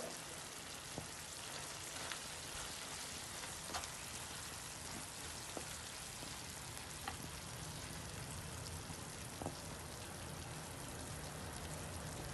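Chicken mince frying in oil in a pan: a steady sizzle with a few faint clicks scattered through it.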